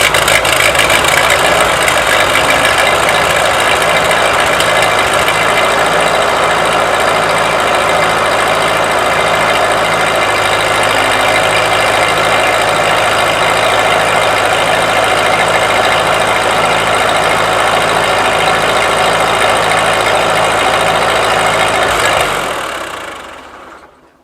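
Ford 8N tractor's four-cylinder flathead engine running steadily, then dying away and stalling near the end. The owner takes the stall to mean that the engine needs to run a while and warm up.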